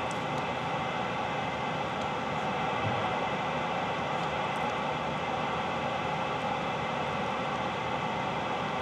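Steady hiss of static from a Premier Centurion radio's receiver between transmissions, with no voice coming through as band conditions fade in and out.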